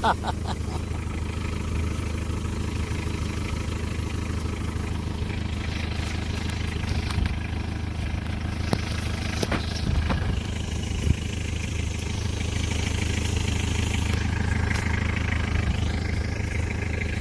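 Engine of a 4x4 jeep idling steadily, a low even hum, with a few short knocks and clicks over it.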